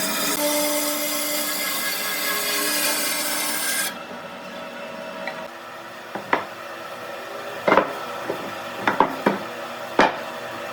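A power tool working wood runs with a steady whine for a few seconds, then cuts off suddenly. Several sharp wooden knocks follow as pieces are handled.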